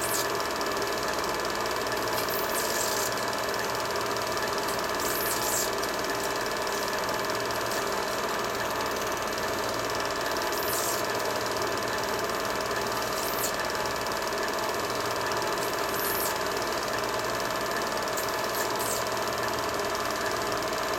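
Film projector running: a steady mechanical whir with a few faint clicks scattered through.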